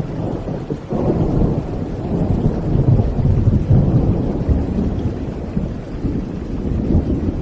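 Rolling thunder over steady rain: a deep rumble that swells about a second in and slowly fades toward the end.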